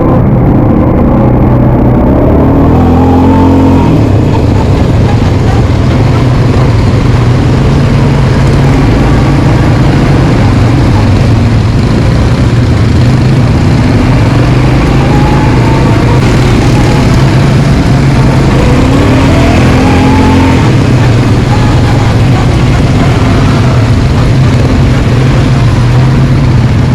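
Quad bike engine running under way, its pitch rising and falling with the throttle several times.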